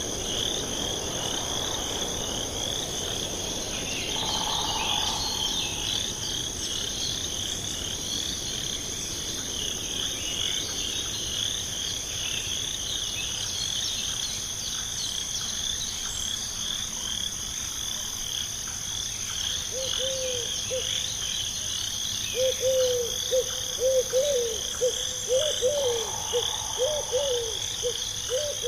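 A night chorus of frogs and insects: a steady high insect drone and a continuous rapid trill of chirps. About two-thirds of the way in, a frog begins a run of loud, low, repeated croaks.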